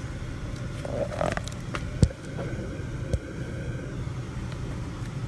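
Dried Hydrocal plaster cracking and crunching as it is broken up inside a flexible rubber mixing bowl, with a short crackle about a second in and two sharp snaps, the louder one about two seconds in. A steady low hum runs underneath.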